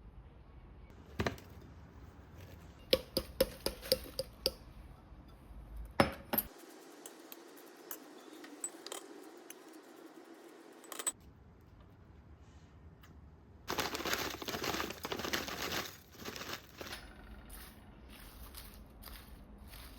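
Light clicks and clinks of small hard objects being handled, scattered through the first six seconds. A few seconds of denser noise follow about two-thirds of the way through.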